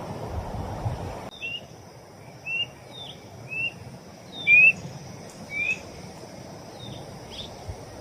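A bird calling over and over in short two-note chirps, a falling note then a rising one, about once a second, over a steady high insect drone. Before it, about a second of low rushing noise stops abruptly.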